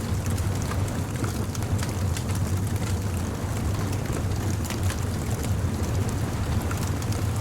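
Bonfire crackling, with scattered sharp pops and snaps over a steady low rumble.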